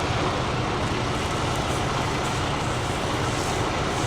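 Truck engine idling steadily, heard as a low, even rumble inside the cab.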